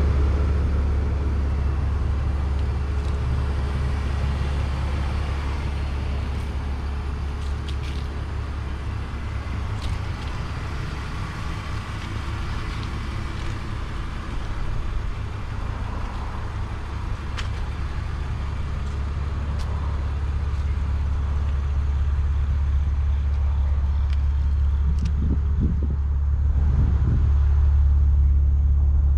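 BMW Z4 2.5i's 2.5-litre inline-six idling steadily, heard up close. It grows louder near the end, at the tail of the car near the exhaust.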